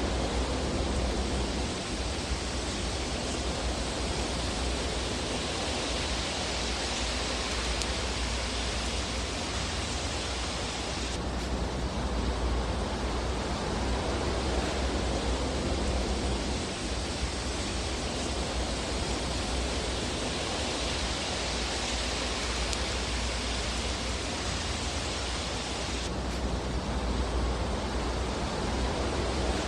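Fire burning in a fireplace: a steady, dense rushing hiss with hardly any distinct crackles or pops. The texture shifts abruptly about 11 seconds in and again about 26 seconds in.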